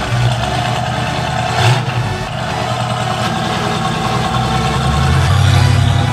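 1968 Ford Mustang fastback's engine running at idle in an underground garage, getting a little louder about five seconds in as the car pulls away.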